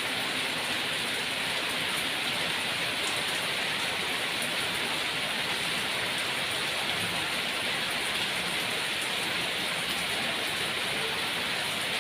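Rain falling steadily: an even hiss with a few faint ticks scattered through it.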